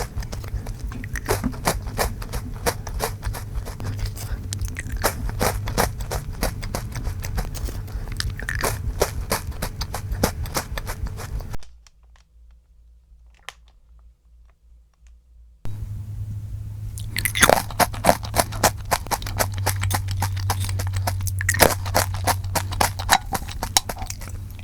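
Close-miked crunching and chewing of an Alfort salty-butter chocolate biscuit for about twelve seconds. A few seconds of near silence follow. Then comes louder crunching of a cheese almond senbei rice cracker.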